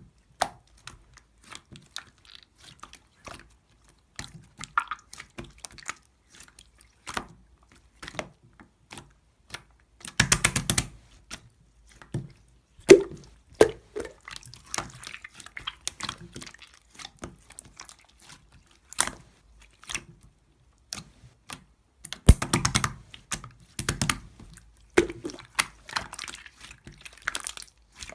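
Slime being squeezed and poked by hand: scattered sticky clicks and pops, with denser crackling squishes about ten seconds in and again about twenty-two seconds in.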